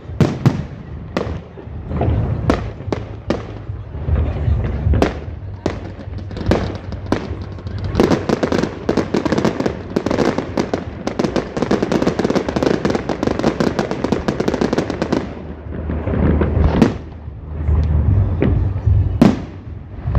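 Fireworks going off: single bangs about once a second, then about seven seconds of dense rapid crackling, then more scattered bangs, with one of the loudest near the end.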